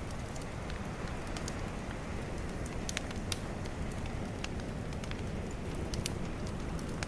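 Bonfire crackling, with scattered sharp pops, over a steady low wash of calm ocean waves.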